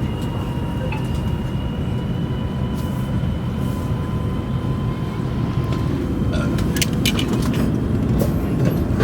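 Steady low rumble of a Chinese high-speed train's passenger cabin at speed, with a faint steady whine over it. A few light clicks and knocks come near the end.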